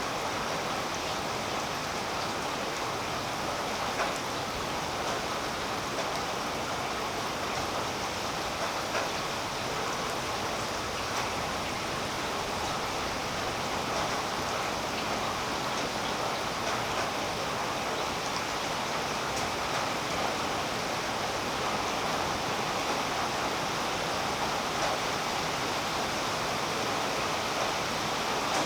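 Steady rain falling on tree leaves, a continuous even hiss with faint scattered drop ticks.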